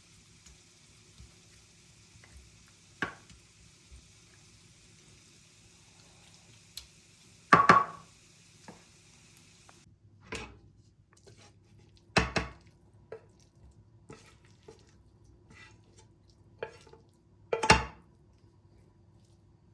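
Kitchenware being handled: a series of separate knocks and clinks of utensils, dishes and pans, the loudest about eight, twelve and eighteen seconds in. Under them a faint steady hiss stops suddenly about ten seconds in.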